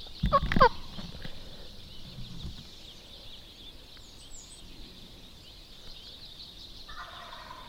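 Wild turkey gobbling once, loud and near: a short rattling gobble with falling pitch about half a second in, over a faint steady high-pitched background chorus.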